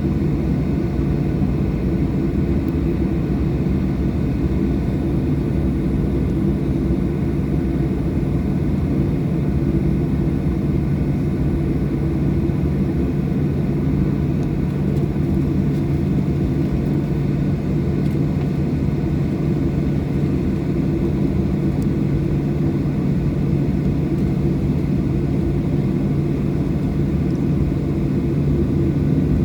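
Cabin noise of a Boeing 737-800, its CFM56-7B engines running at a steady, unchanging pitch with a low hum, heard from a window seat inside the cabin.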